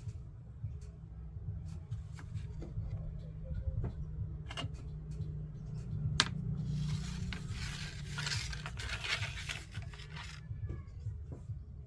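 Broken washing machine door glass being handled: scattered clicks, one sharp click about six seconds in, then about four seconds of rattling and scraping with many small ticks.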